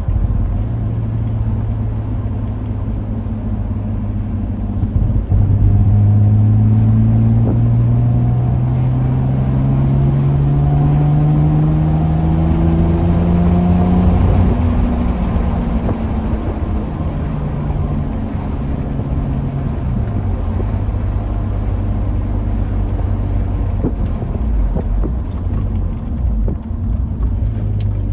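Car engine pulling hard in one gear: its note climbs steadily for about nine seconds from about five seconds in, drops at a gear change, then runs steadier at cruising speed.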